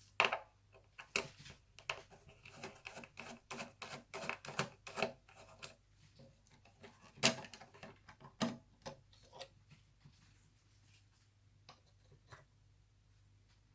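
Irregular clicks, taps and clatter of small parts being handled during laptop disassembly, with a few louder knocks, busiest in the first several seconds and thinning to occasional ticks near the end.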